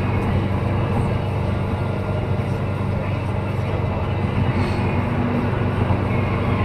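A vehicle running steadily: a constant low engine hum with road noise.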